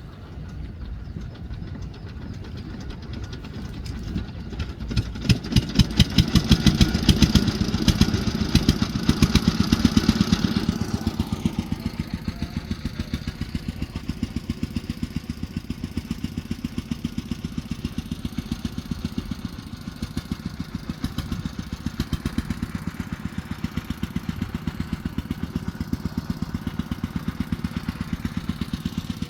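A small engine running steadily with an even, rapid beat. It swells louder about five seconds in, then settles back to a steady run about eleven seconds in.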